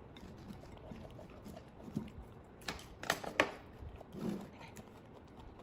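A spoon mixing food in a bowl, with a few sharp clicks of the spoon about three seconds in, and a couple of faint low sounds around them.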